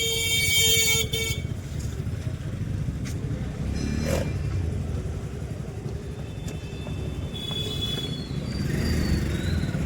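City street traffic: a vehicle horn honks loudly for about a second at the start, over a steady rumble of engines and tyres, with fainter, higher horn toots near the end.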